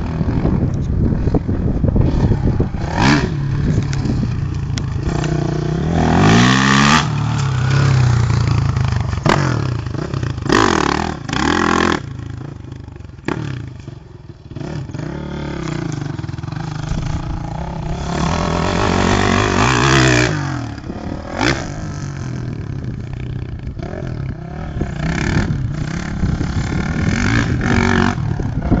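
Honda CRF450 single-cylinder four-stroke motocross bike engine being ridden hard, its pitch rising and falling over and over as the throttle opens and closes, quieter for a moment about halfway through.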